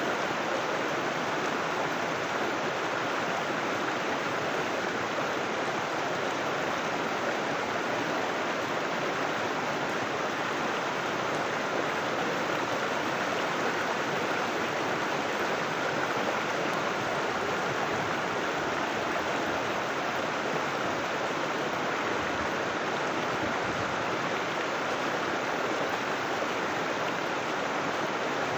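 River water rushing and splashing in a steady, unbroken wash.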